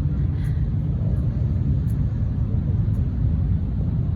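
A large group of motorcycles riding past in a continuous stream, their engines merging into a steady low rumble.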